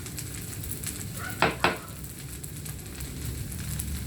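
Food sizzling and crackling in a frying pan, with two sharp knocks close together about a second and a half in.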